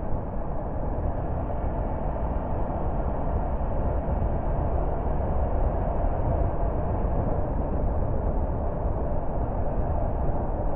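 A car on the move: a steady rumble of road and engine noise, deepest in the bass, holding even throughout without any sudden sounds.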